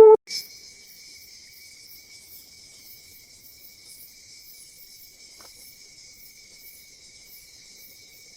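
A loud held howl breaks off at the very start. Then a steady chorus of rainforest insects takes over: a continuous high trill with a fainter shimmer of pulses above it.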